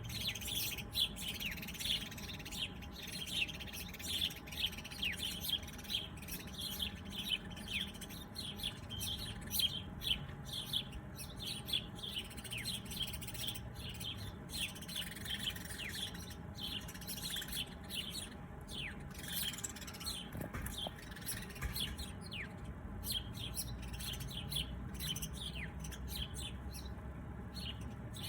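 Several small birds chirping continuously: many quick, high, downward-sweeping chirps overlapping, thinning out a little near the end, over a low steady background rumble.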